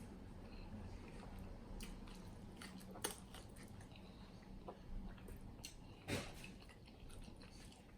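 A person chewing saucy chicken wings close to the microphone, with wet mouth clicks and smacks. A few sharper clicks stand out, about three seconds in and again about six seconds in.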